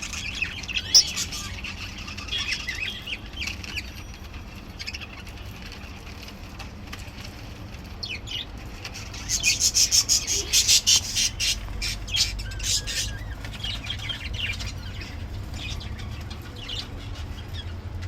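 A flock of caged budgerigars chirping and chattering, with a louder rush of rapid chirps about nine to eleven seconds in.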